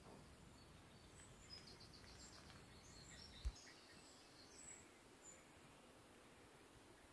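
Near silence: faint background with a few distant, high bird chirps, and a single brief low thump about halfway through.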